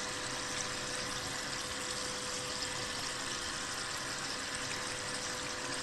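Water rushing steadily through a small 6-inch sluice box fed by a spray bar, with a faint steady hum beneath it.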